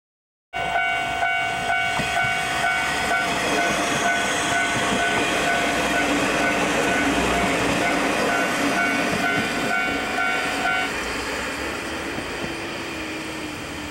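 A diesel railcar running past at close range, with a level-crossing alarm ringing in steady tones; the alarm stops about eleven seconds in and the railcar's sound then fades as it moves away.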